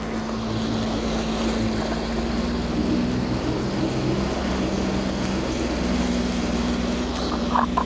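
Jet ski engine running at a steady pitch under way, over a continuous rushing hiss.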